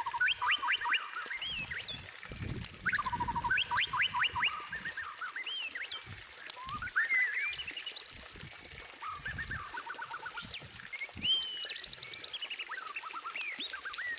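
White-rumped shama (murai batu) singing a continuous, varied song of fast repeated notes, trills and short whistles, with soft low thumps underneath now and then.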